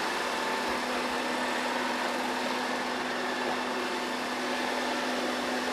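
Narwal Freo Z Ultra robot vacuum and mop running steadily, its suction motor giving an even whirring hum with a low steady tone.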